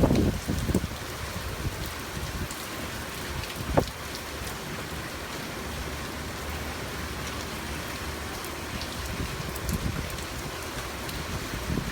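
Heavy hurricane rain falling steadily, with scattered drop ticks and one short knock about four seconds in.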